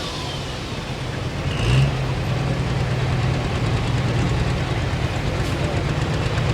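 Super stock pulling tractor's engine running steadily at low revs, with a brief rev about two seconds in.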